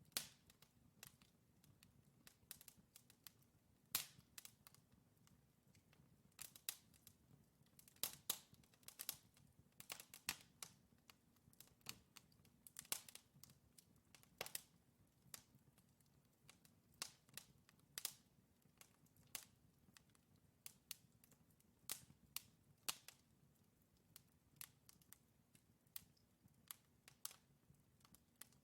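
Wood fire in a fireplace crackling, with sharp irregular pops and snaps from the burning logs, several a second at times, over a faint low background.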